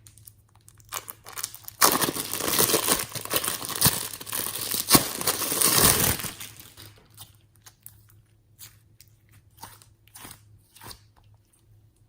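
Crinkly packaging being torn and crumpled for about four seconds, followed by scattered small crackles and clicks.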